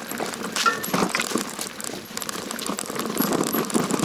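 Mountain bike clattering over a rough trail: irregular metallic jangling and knocks from the chain and frame, with tyre noise on rocks and dirt.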